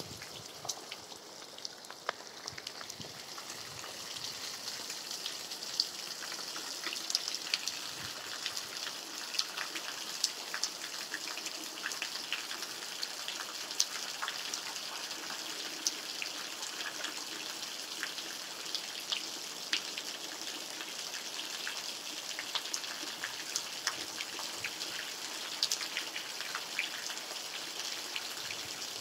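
Steady rain falling, a continuous hiss with many separate drops ticking sharply through it, a little softer for the first few seconds.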